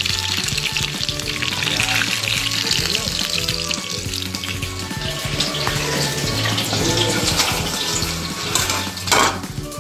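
Battered cauliflower florets frying in hot oil with a steady sizzle, under background music. A sharp knock about nine seconds in.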